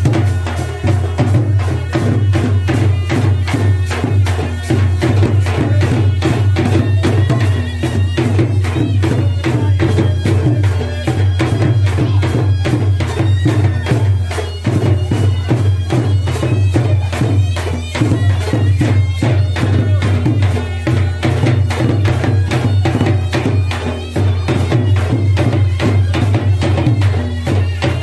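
Loud traditional folk music: a wind instrument plays a wavering melody over fast, continuous drumming.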